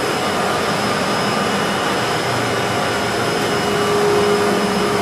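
Haas VF-2 CNC vertical machining center running: a steady whirring drone with a steady high whine over it.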